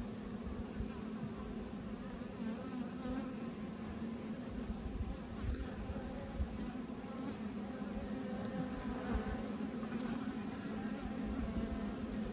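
Honeybee colony buzzing steadily from the opened hive: a dense, even hum of many bees on the wing.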